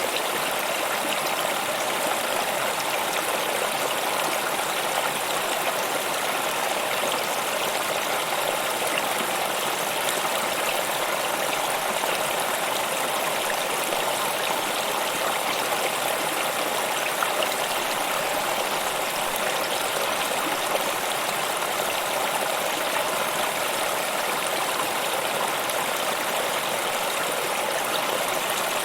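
Stream water running in a steady, even rush, with no change or break.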